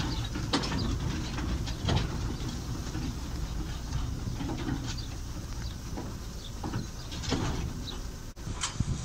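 Narrow-gauge train carriage running along the track: a steady low rumble with scattered clicks and knocks from the wheels and running gear.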